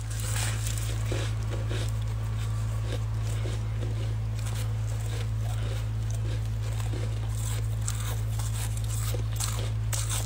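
Crisp, dry freezer frost being chewed, soft crunches scattered through, with a few sharper crunches near the end. A steady low hum underlies it and is the loudest sound.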